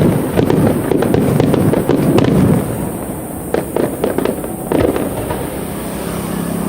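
Aerial fireworks display: a rapid volley of shell bursts and crackling for about two and a half seconds, then two more single bursts with the sound dying away. A faint steady low hum comes in near the end.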